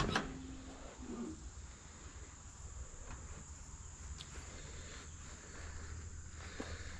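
Faint, steady high-pitched chirring of insects such as crickets, over a low outdoor rumble.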